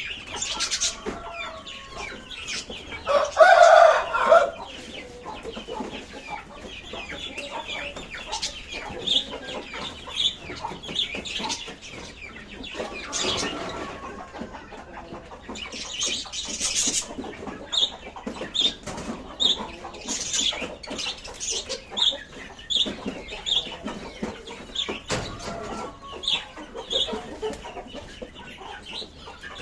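A flock of lovebirds and budgerigars chirping and chattering, with many short high calls throughout and a louder, lower call about three seconds in.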